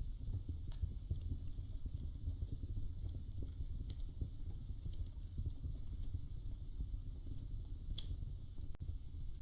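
Wood fire crackling in a fireplace: sharp pops and snaps every second or two, the loudest about eight seconds in, over a low steady rumble of the flames.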